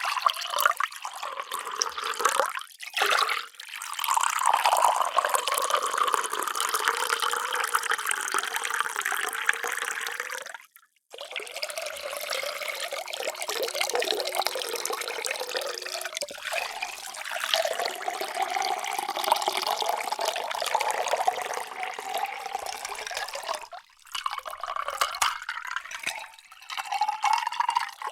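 Water poured in a steady stream into a vessel, several separate pours with brief breaks between them. During the longer pours the ringing pitch slowly rises as the vessel fills.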